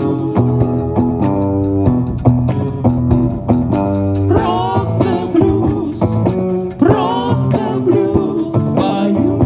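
Live rock band playing a blues-rock passage: guitars and bass, with a lead line sliding in pitch over a steady beat.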